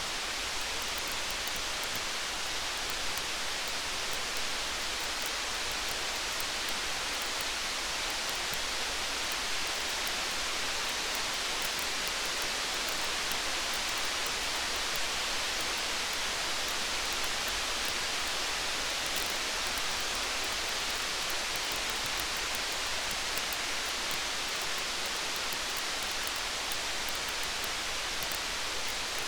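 Steady rain falling, a constant even hiss, with faint, frequent small crackles of a wood campfire over it.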